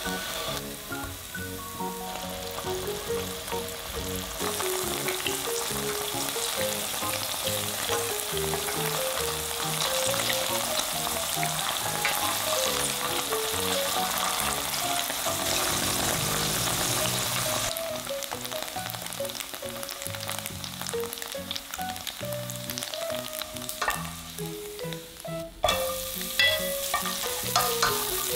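Sticks of tofu sizzling as they fry in oil in a nonstick pan, with chopsticks and a spatula scraping and turning them. The sizzle grows louder a few seconds in and eases about two-thirds through. After a short break near the end, sliced red onion sizzles in the oil as chopsticks stir it.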